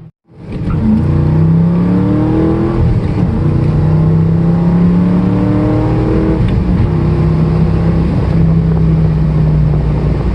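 1998 Ford SVT Cobra Mustang's 4.6-litre DOHC V8 pulling while driving. The engine note climbs steadily in pitch and drops back twice as the gears change.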